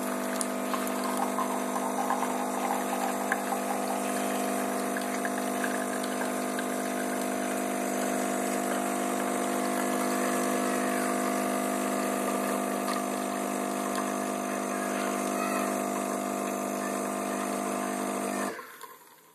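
Aldi Expressi capsule coffee machine's pump running with a steady hum as it pushes water through the coffee pod to brew, then cutting off suddenly near the end.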